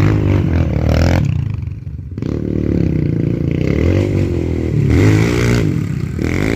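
Small pit bike engines revving up and down through the gears as the bikes race, with a brief drop in the engine note about a second or two in before it picks up again.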